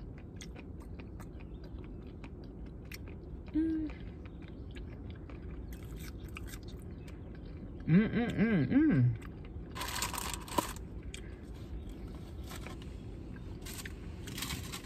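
Close-up chewing and crunching of fried fast food, with many small crunches. A short wordless 'mm' comes about four seconds in, a longer wordless hum with rising and falling pitch around eight seconds, and a brief rustle of paper packaging about ten seconds in.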